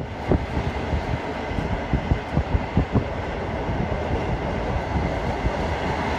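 Passenger train running along the track: a steady rumble of the carriage with irregular knocks and clatter from the wheels over the rails, thickest in the first half.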